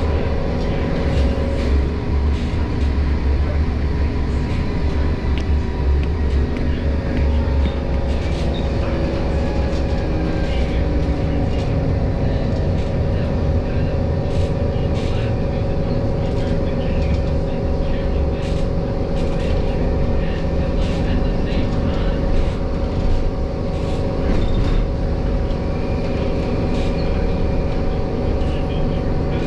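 Gothenburg tram running along its tracks: a steady low rumble with several held tones over it and scattered clicks.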